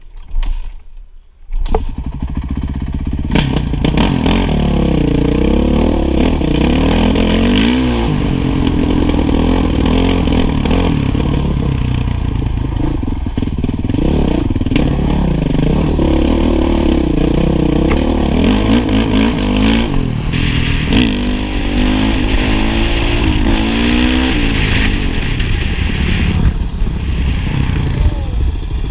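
Honda motorcycle engine being ridden hard, its pitch repeatedly rising and falling as the throttle is opened and closed. A couple of brief knocks come first, and the engine sound takes over about two seconds in.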